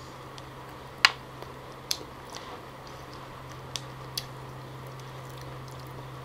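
Close-miked mouth chewing soft wild jackfruit flesh with the lips closed: a few sharp, wet clicks and smacks, the loudest about a second in, over a steady low hum.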